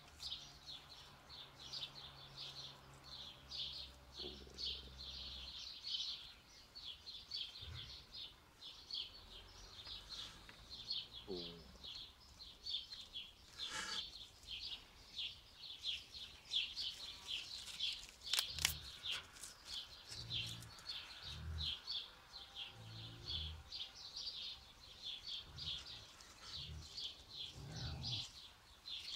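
Small birds chirping rapidly and without a break, several high chirps a second, with a couple of sharp clicks and some soft low thumps in the second half.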